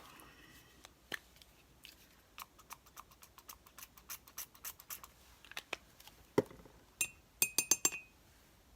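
Small clicks and taps of craft supplies being handled on a work table, then a knock and a quick run of sharp, ringing clinks like a glass or metal paint container and lid.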